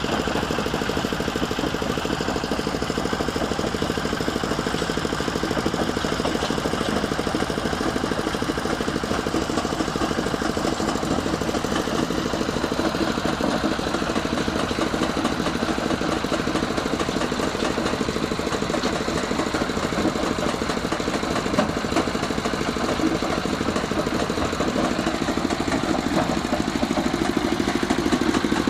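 Changchai L24 single-cylinder diesel engine running steadily, powering a stone crusher.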